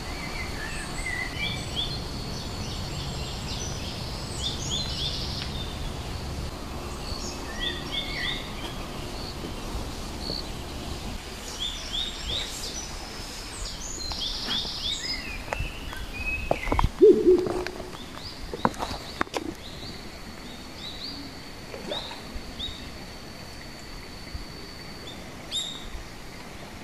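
Small birds chirping in the open air: clusters of short, high, falling chirps that come and go, over a low steady background rumble that fades after the first third. A few louder knocks and a brief low call stand out about two thirds of the way in.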